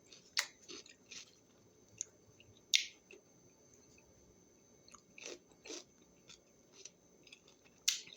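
A person chewing a crunchy raw vegetable snack with the mouth close to the microphone: irregular, separate wet crunches with short quiet gaps, the loudest about three seconds in.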